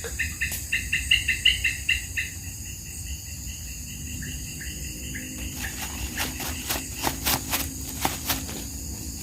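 Insects chirping in fast repeated pulses, about six a second, over a steady high buzz. A little past halfway the pulsing gives way to a run of sharp clicks.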